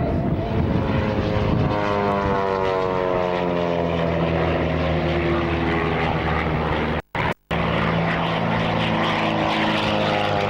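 Propeller-driven aerobatic display plane's piston engine running with a steady drone as it flies past, its pitch sliding down, then starting to rise again near the end. The sound drops out twice, briefly, about seven seconds in.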